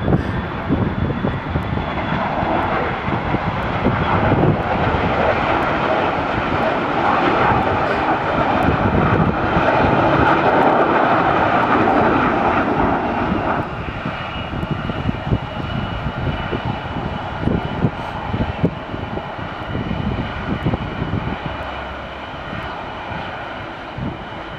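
Aircraft engines of a passing airplane on takeoff or landing: a loud rushing engine noise swells, then drops off sharply about 14 seconds in, leaving a quieter rumble with a faint steady high whine.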